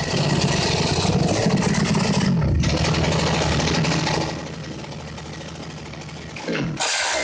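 Engine of a 150 cc prototype motorcycle running at high revs, its pitch climbing for the first two seconds and then dropping sharply. After that it settles lower and quieter. Music starts near the end.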